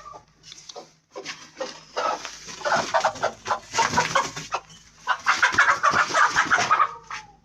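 Aseel chickens clucking rapidly in two loud runs of calls, the second louder, dying away near the end.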